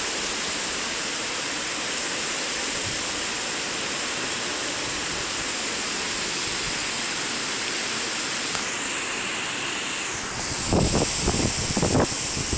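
Steady rushing hiss of hurricane rain and wind. About ten seconds in it grows louder, with a few low rumbling buffets on the microphone.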